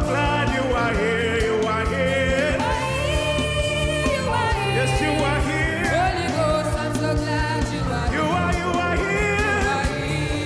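Live gospel worship music: a singer's long, wavering melody lines over keyboard, a steady bass and drums.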